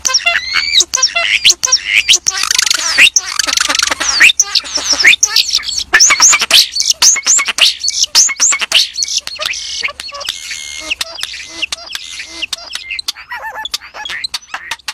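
Songbird song: a dense, fast run of chirps, trills and whistled glides up and down in pitch, mixed with many short sharp clicks, growing sparser in the last few seconds.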